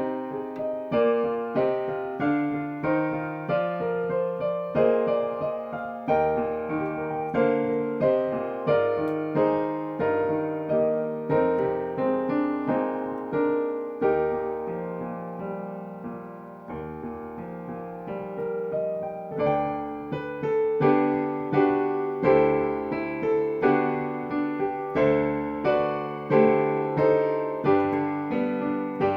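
Solo piano music: notes struck about twice a second, each ringing and fading, growing softer for a few seconds in the middle before rising again.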